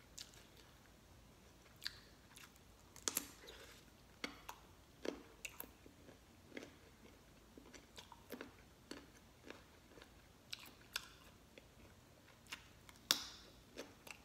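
A person crunching and chewing raw carrot sticks, close up: a string of short, crisp crunches about one or two a second, with louder bites about three seconds in and near the end.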